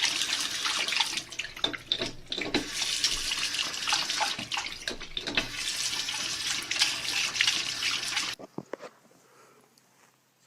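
Water running and splashing, a dense hiss with irregular spatters, cutting off suddenly about eight seconds in.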